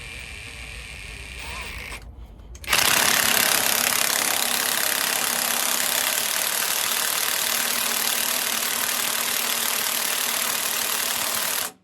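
A lower mechanical rumble, then a power tool starting about three seconds in and running loudly and steadily for about nine seconds before cutting off suddenly.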